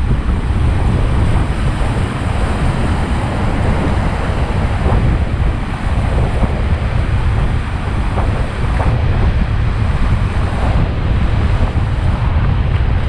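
Rushing whitewater around a raft on river rapids, with wind buffeting the microphone in a steady low rumble.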